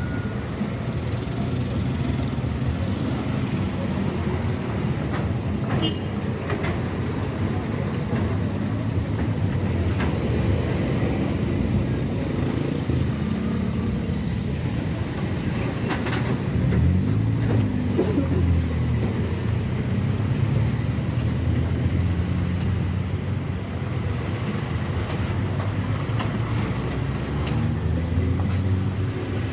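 Heavy truck's diesel engine running on the move, with road noise. Its pitch falls and rises a few times as it changes speed, most clearly a little past halfway and again near the end.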